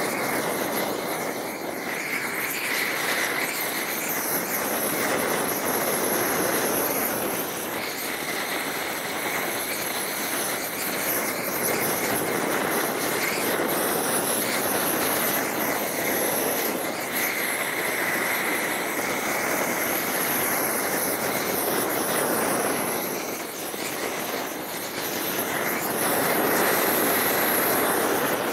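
Homemade propane gas torch burning with a steady rushing noise, heating bitumen roll roofing to fuse it onto the garage roof.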